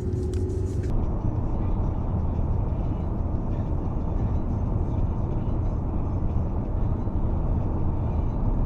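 Steady low rumble of a car driving on the road. The higher hiss drops away sharply about a second in.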